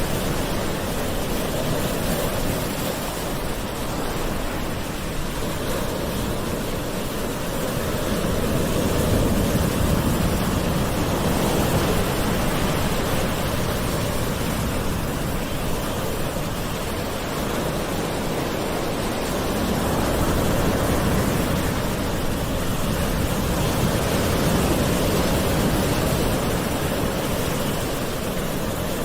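Gentle ocean waves washing in as a steady hiss of surf, swelling softly and easing back every several seconds.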